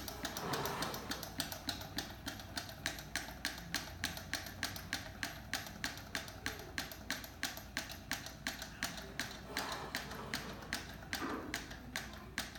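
Homemade Stirling engine with a CD flywheel running steadily under heat, its crankshaft and wire linkage clicking regularly about four times a second.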